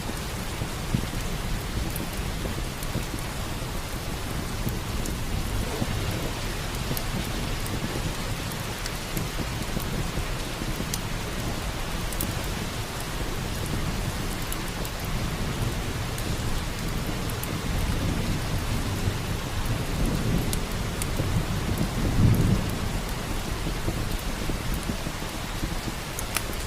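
Steady heavy rain with a low rumble of thunder that swells in the second half and peaks a few seconds before the end. Scattered small crackles run through it.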